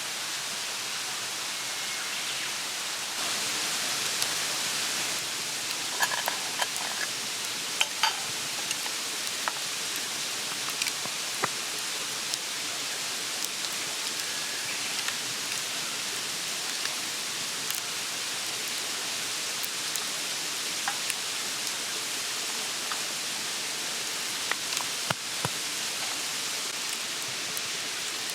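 Wood campfire burning: a steady hiss with scattered sharp pops and crackles, some in quick clusters.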